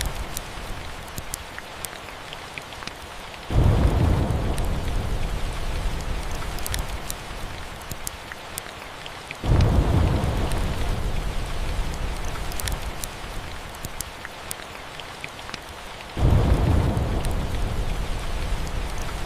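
Steady rain with three rolls of thunder, each starting suddenly and fading away over several seconds. Sharp crackles from a log fire tick through the rain.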